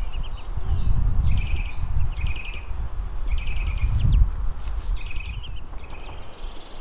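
A small bird repeating a short chirping call several times, about once a second, with a brief higher trill near the end, over a low rumbling outdoor noise.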